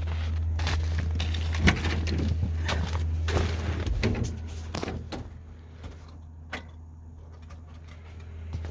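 Scattered knocks and clicks over a steady low hum, thinning out about halfway through into a quieter stretch with one more click.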